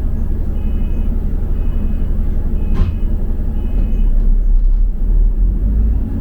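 Low, steady rumble of a double-decker bus's engine and running gear, heard on board, growing heavier about four seconds in. Four short electronic two-tone beeps come about once a second over the first four seconds, with a sharp click near the third beep.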